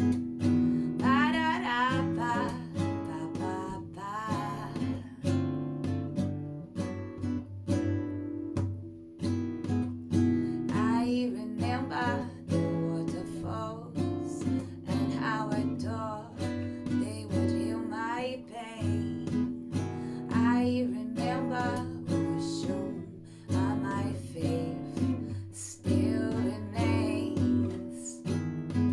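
Acoustic guitar playing a song, with a woman singing a wordless melody over it.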